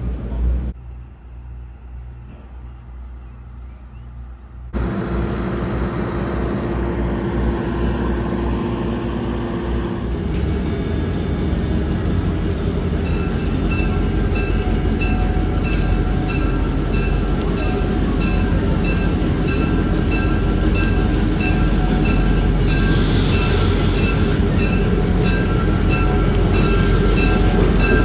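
EMD FP7 diesel locomotive's 16-cylinder 567 engine running, quieter for the first few seconds, then coming in loud and steadily building. From about halfway, a regular ringing repeats about one and a half times a second, likely the locomotive's bell, with a short hiss near the end.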